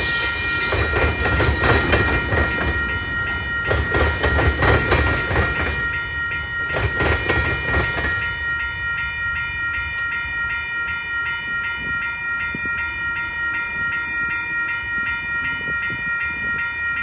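Freight train tank cars clattering over the rails and fading away about eight seconds in, under a railroad crossing bell that keeps ringing with regular strokes while the crossing lights still flash.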